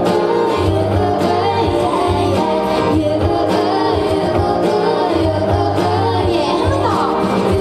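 Live pop song performance: a female lead vocal sung over band accompaniment.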